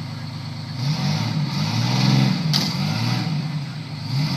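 Antique fire truck engine idling, then revved up and down about four times in quick succession. A single sharp click is heard midway through.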